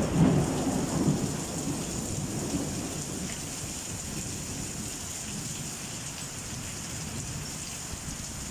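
Rain falling steadily in a thunderstorm, with a low roll of thunder loudest in the first second or so and fading away.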